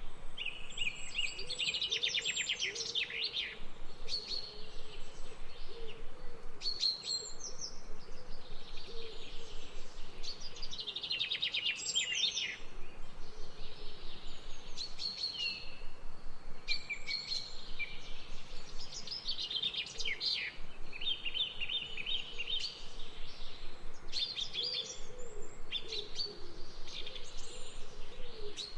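Several small songbirds chirping and trilling in quick, overlapping phrases, with a low, wavering bird call sounding underneath now and then.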